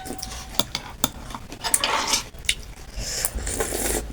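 Utensils clicking against a bowl of chicken thukpa noodle soup, a few separate clinks, with two longer stretches of noisy eating in between, the second near the end.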